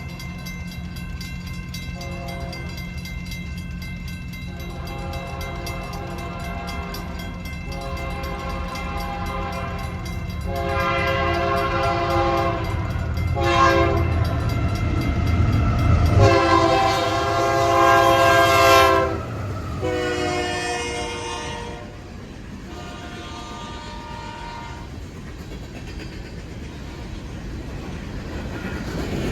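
Diesel locomotive's multi-chime air horn sounding a string of blasts as the train approaches. The loudest are a long blast, a quick short one and another long blast in the middle, followed by two fainter blasts, over a steady low engine hum.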